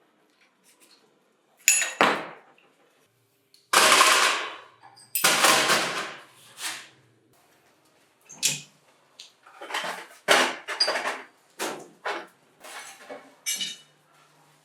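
Irregular knocks and clanks of the concrete vibrator's metal parts being handled and set down during disassembly, a dozen or so sharp hits, the loudest about two to four seconds in.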